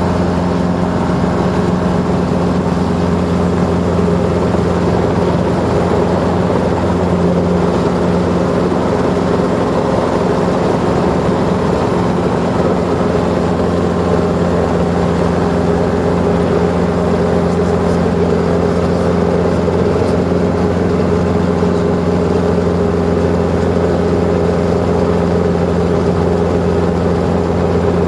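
Helicopter engine and rotor running steadily: an unchanging low drone with a steady hum above it.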